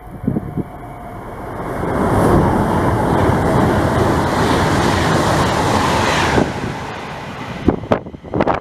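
A train passing through at speed: a rush of wheel and air noise that builds over a couple of seconds, holds loud, then drops away suddenly about six seconds in. A few short thumps of wind on the microphone follow near the end.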